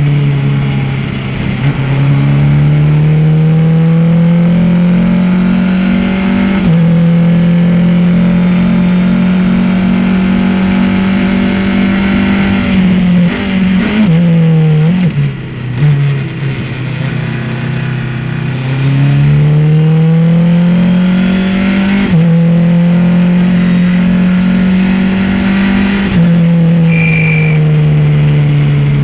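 Race car engine at full throttle, its pitch climbing and stepping down at each upshift. About halfway through it drops off and wavers through several short blips as the car brakes and downshifts, then pulls hard through the gears again.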